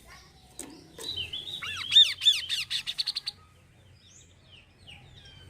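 Kaso-kaso bird singing a fast run of high arched chirps, about six or seven a second, loudest about two seconds in and stopping a little after three seconds; faint scattered chirps follow.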